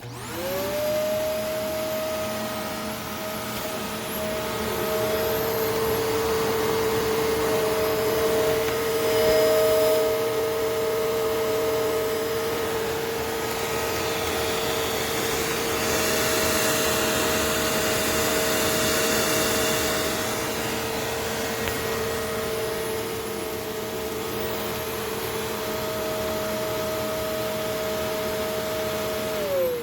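Upright vacuum cleaner motor switched on, rising quickly to a steady whining rush as it vacuums. It winds down in pitch when switched off near the end.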